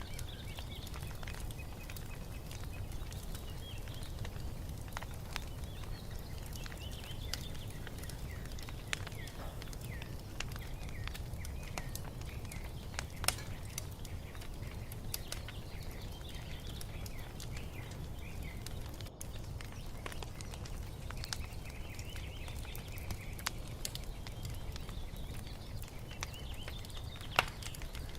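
Wood fire crackling with scattered pops over a steady low rumble, with one louder pop about halfway and another near the end. Small birds chirp and twitter throughout.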